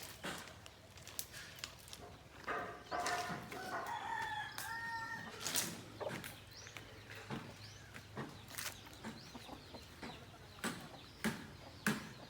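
A rooster crowing once, a drawn-out pitched call lasting about three seconds, starting a couple of seconds in. Scattered sharp knocks sound on and off throughout.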